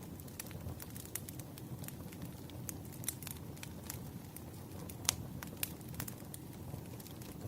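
Wood fire burning: a low steady rush of flames with scattered sharp pops and crackles, the loudest a little after five seconds in.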